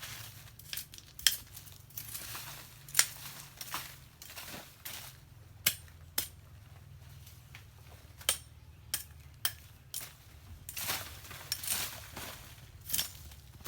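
Bush and rubbish being cleared from the ground by hand: irregular sharp cutting strikes and swishing, rustling vegetation and debris, with pauses between strokes.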